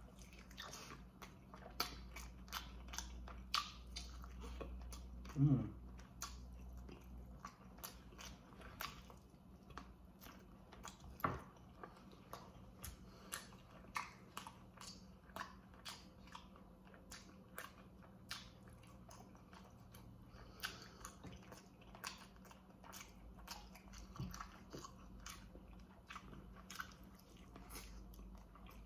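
Baked chicken drumsticks being bitten and chewed close to the microphone: a steady run of small mouth clicks. A brief vocal sound comes about five seconds in.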